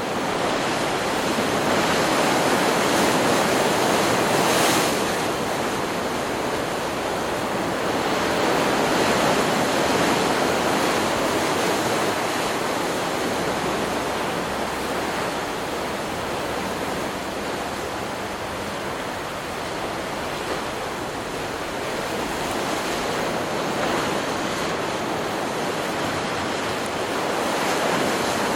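Ocean surf: waves breaking and washing up a beach in a continuous rushing noise that swells and eases, with a sharp hiss of a wave crashing about five seconds in. It is a stock beach-sound recording.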